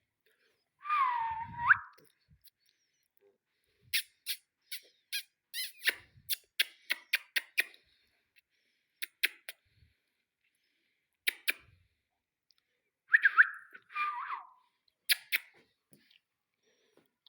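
Ringneck parakeet giving short whistled calls that dip and rise in pitch: one about a second in and two more near the end. A rapid run of sharp clicks falls in between, followed by a few single clicks.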